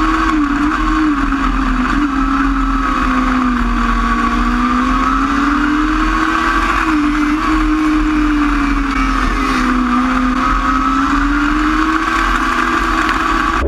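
Micro sprint race car engine running hard at racing speed, its pitch slowly dipping and climbing again every few seconds as the throttle comes off and back on around the track.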